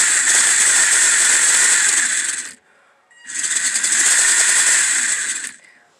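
WPL D12 RC mini truck's electric motor and gear drivetrain running at high throttle, a loud high-pitched whir in two runs with a short stop about two and a half seconds in. The drivetrain spins smoothly without binding.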